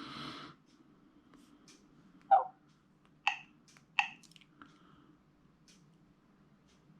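Short beeps from a sat nav's touchscreen as its menu buttons are tapped: three sharp pitched blips, the first sliding down in pitch. A brief breathy rush comes right at the start.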